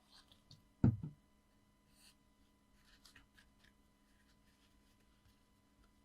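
A single dull thump, doubled, about a second in, as something is set or pressed down on the craft table, then faint rustling and light clicks of paper and card being handled.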